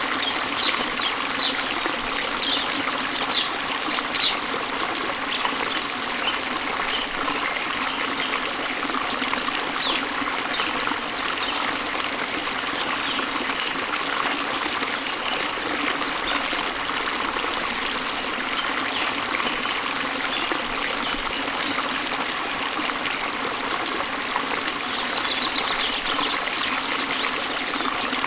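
Waterfall water running steadily. A bird chirps in quick, short, high notes during the first few seconds and again near the end.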